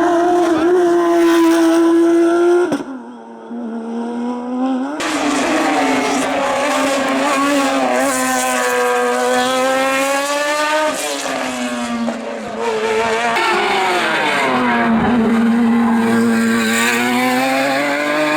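Race car engines at high revs, their pitch climbing and dropping with throttle and gear changes. Several short passes are cut together, with abrupt switches between them.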